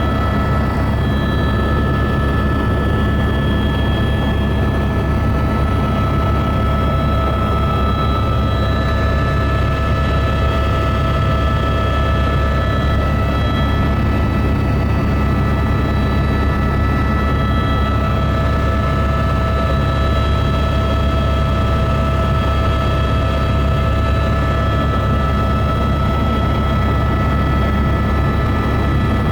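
Helicopter in flight: a loud, steady rotor and engine drone with several constant high whining tones above it, unchanging throughout.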